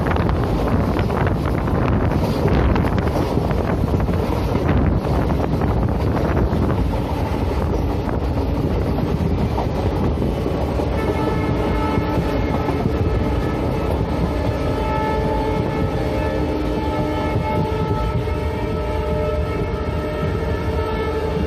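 Passenger train running at speed, heard from an open coach door: rumble of wheels on rail and wind buffeting the microphone. About halfway through, a steady pitched tone from the train joins in and holds.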